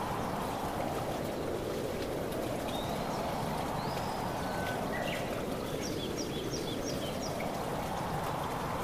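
Steady rush of flowing water that swells and eases slowly. A bird calls faintly a few times in the middle, ending with a quick run of short high chirps.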